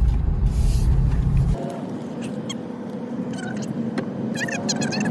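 Car cabin road noise, a steady low rumble, cuts off suddenly about a second and a half in. Quieter outdoor background follows, with a cluster of short high chirping calls near the end.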